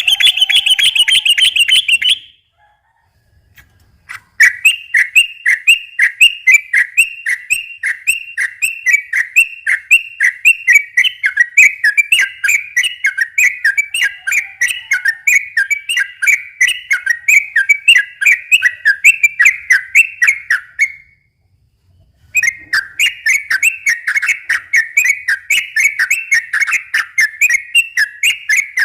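Yellow-vented bulbul (trucukan) singing a long 'ropel' song: a short, higher burst of notes, then long, fast runs of rapidly repeated chirping notes. The song breaks off briefly about three-quarters of the way in and then resumes.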